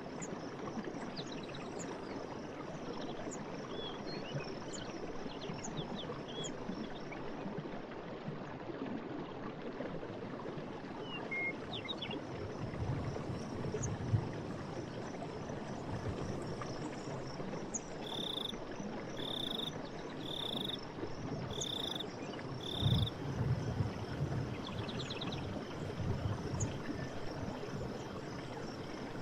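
Forest stream running steadily, with scattered bird chirps over it. About two-thirds of the way in comes a run of five evenly spaced calls, and there are a few brief low swells in the water sound.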